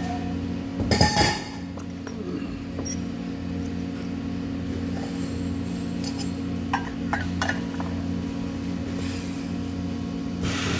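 Steady low hum with a loud metallic clatter about a second in, followed by a few light clinks.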